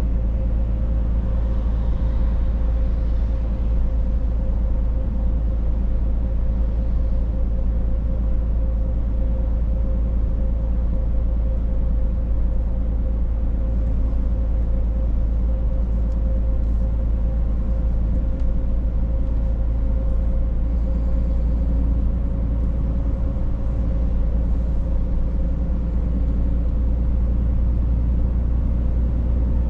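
Scania truck driving at a steady speed: a continuous low engine and road rumble with a steady hum.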